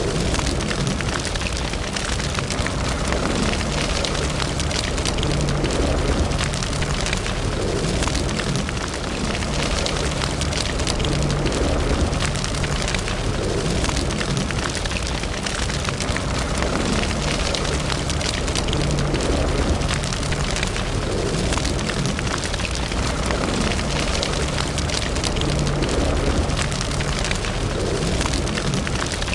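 Fire burning steadily in a fireplace, with a dense, continuous crackle of small pops over a low, even rush of flame.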